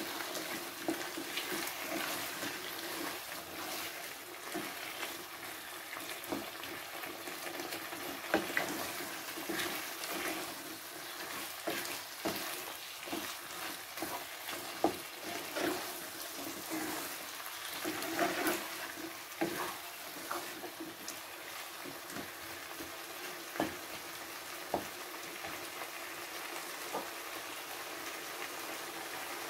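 Sliced potatoes in a wet masala gravy sizzling in a pan over a high gas flame, while a wooden spatula stirs them, scraping and knocking against the pan in irregular strokes. The stirring stops near the end, leaving the steady sizzle.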